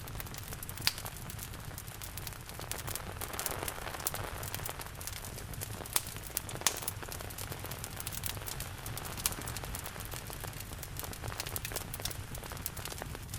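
Steady rain hiss mixed with a crackling wood fire, whose sharp pops come at irregular moments, the loudest about a second in and around six and seven seconds in.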